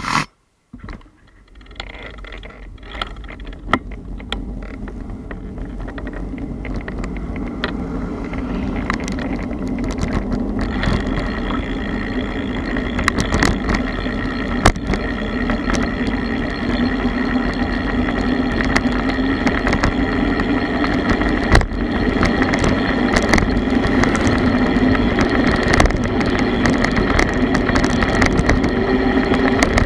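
Bicycle rolling along a road: a steady rumble of tyres and wind with scattered sharp ticks and rattles. It grows gradually louder after a brief quiet start.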